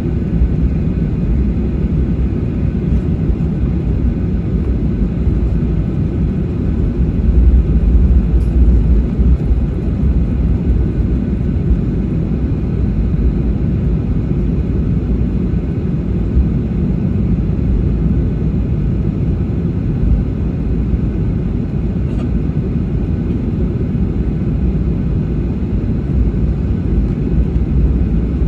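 Boeing 737-800 airliner taxiing, heard inside the cabin: a steady low rumble of the CFM56 engines at taxi power and the wheels rolling on the taxiway, swelling briefly in the low rumble about eight seconds in.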